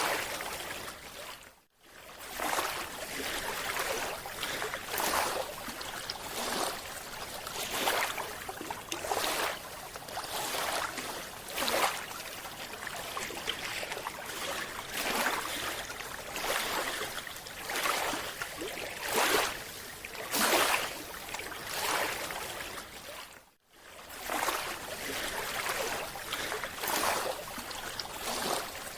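Underwater water noise on a diving camera: rushing, bubbling surges that swell and fade about every second. It drops out briefly twice, near the start and about three-quarters of the way through.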